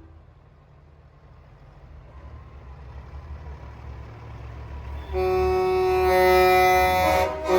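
A semi truck's diesel engine rumbling louder as it approaches, then a loud, held air horn blast starting about five seconds in, with a brief break near the end.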